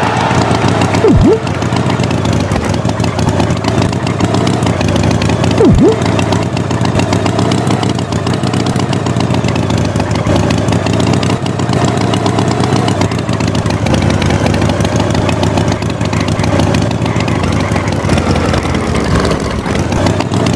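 A motor engine running steadily, with two short, loud sweeps falling sharply in pitch, about a second in and near six seconds in.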